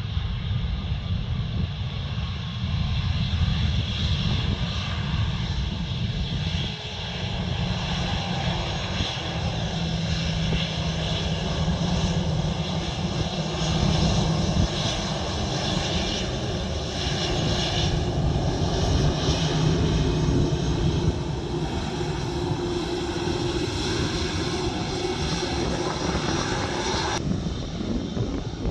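Jet airliner's turbofan engines running loud and steady, a whine of many tones over a deep rumble. Near the end the higher whine cuts off suddenly, leaving the rumble.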